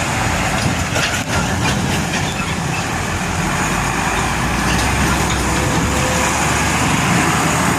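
Roadside traffic dominated by a heavy truck's diesel engine rumble and tyre noise, steady in level, with a few brief clatters about a second in.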